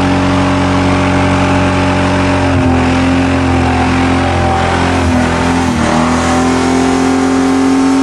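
A Ford Thunderbird's engine held at high revs with the throttle pinned, running at a steady pitch with a few brief dips. The car is badly damaged but still running strong.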